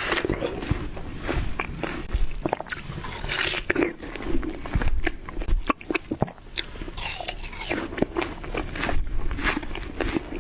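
A person biting into and chewing watermelon: irregular crunching bites and chewing.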